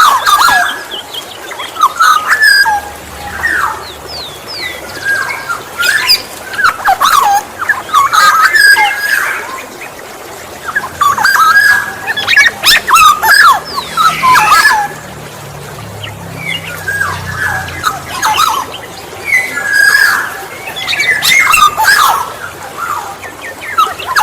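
Black-naped oriole (kepodang emas) singing: clusters of quick whistled and harsher notes, repeated every few seconds.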